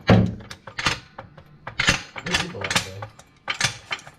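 Irregular metallic clicks and knocks of hand tools being worked on the car's engine parts.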